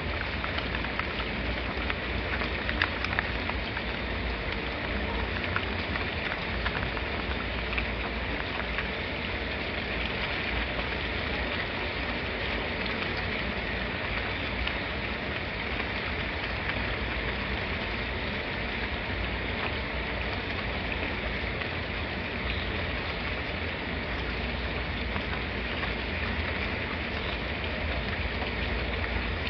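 Steady rain falling: an even, unbroken hiss with a few sharper drop ticks in the first few seconds.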